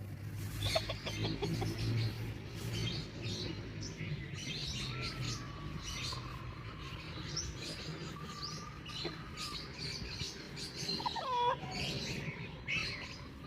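Free-range chickens: hens clucking, with chicks peeping in many short, high chirps throughout.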